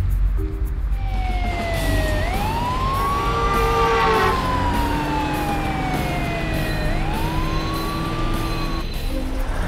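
Ambulance siren wailing: a quick rise in pitch and then a long, slow fall, twice over. It starts about a second in and stops shortly before the end, over a low steady rumble.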